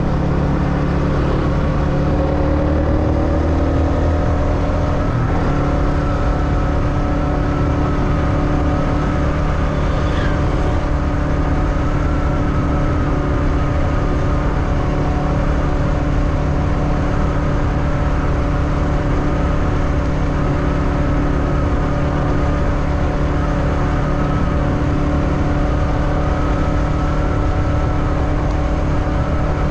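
Motorbike engine running steadily under way, its pitch climbing a little over the first few seconds as it gathers speed and then holding even, over a constant low rumble. There is a brief high squeak about ten seconds in.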